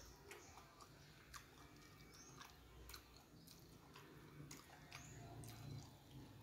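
Faint close-up chewing with scattered soft, wet mouth clicks, and fingers gathering rice and stir-fried water spinach on a plastic plate.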